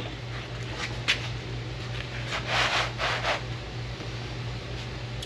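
Steady low background hum with a sharp click about a second in and a brief stretch of rubbing and scraping near the middle: things being handled and shifted about.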